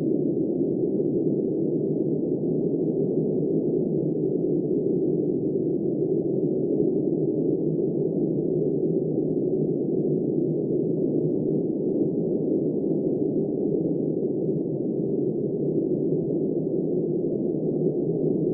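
Wind blowing as a steady, muffled low rush, with no high hiss and no gusts rising or falling.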